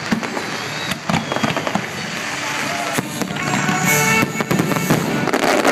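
Fireworks display going off: a dense run of bangs and crackling, with a few held tones about halfway through.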